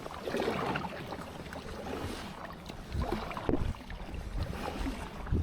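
Kayak on the water: water swishing and splashing against the hull as it is paddled along, with a few short low knocks and wind on the microphone.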